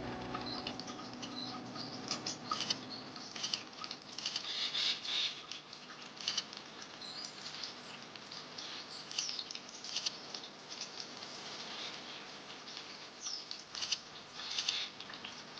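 A group of bramblings at a water spot: many short, high chirps and calls, some irregular and overlapping, over a light rustling patter.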